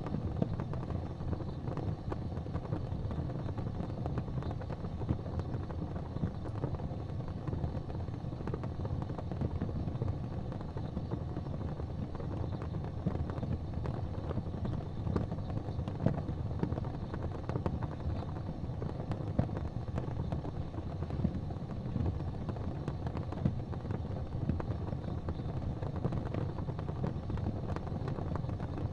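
Wood fire burning in a fireplace: a steady low rush of flames with scattered crackles and pops.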